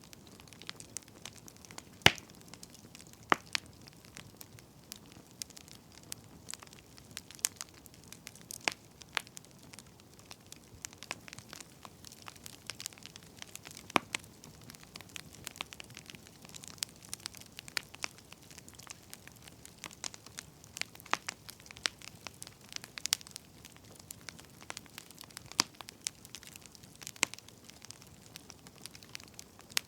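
Firewood burning, crackling with irregular sharp pops and snaps over a soft hiss. A few snaps stand out, the loudest about two seconds in.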